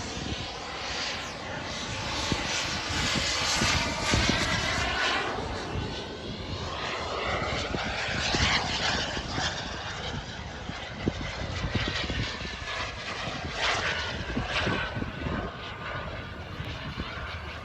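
Turbine engine of a radio-controlled jet flying past, a steady jet hiss and whine that swells and fades as the plane moves through the sky, with low rumbling of wind on the microphone.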